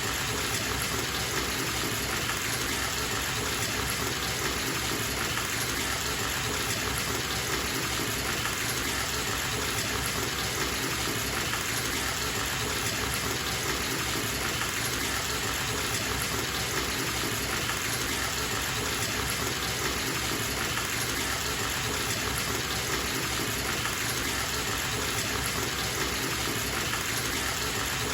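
Water running from a bathtub tap into a filling tub: a steady, unbroken gush.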